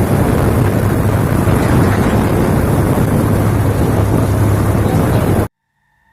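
Vehicle driving on the road: an engine's steady low hum under loud wind rush on the microphone. It cuts off abruptly near the end.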